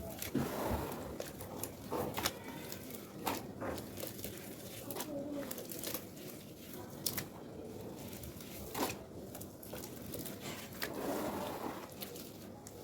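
Wet red sand paste being dipped into and crumbled, giving irregular sharp crunches and crackles over a soft squishing.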